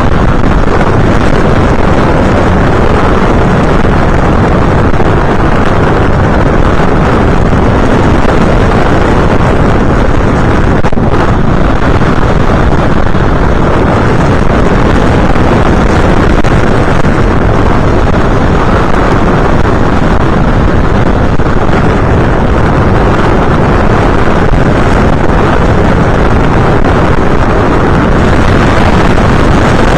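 Loud, steady rushing wind noise on the microphone of an FPV aircraft's onboard camera in flight, blended with the aircraft's motor and propeller noise.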